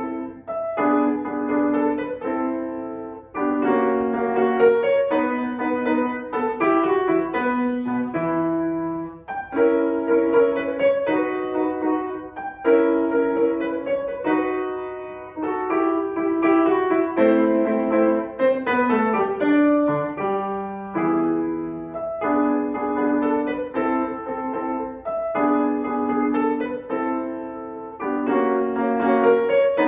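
Piano playing a piece of music: repeated chords and melody in short phrases, with brief breaths between them.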